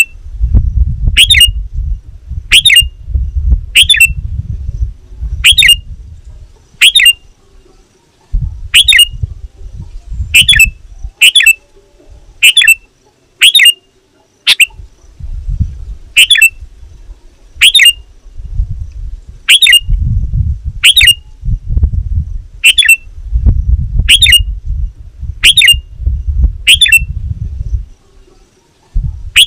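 Sooty-headed bulbul (kutilang) giving a sharp, short call over and over, about one every second and a half, each call a quick downward slur. A low rumble sits under the calls in several stretches.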